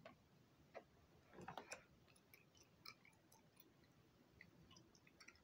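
Near silence with faint gum chewing: soft wet smacks and scattered small clicks, a few slightly louder between about one and two seconds in.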